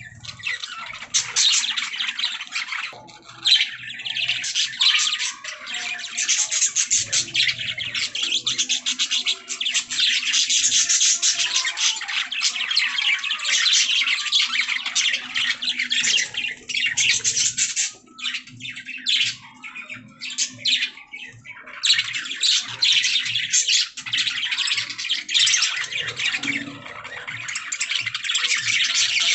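Budgerigars chattering and chirping in a steady, busy stream of rapid high warbles and squawks, with a few brief lulls.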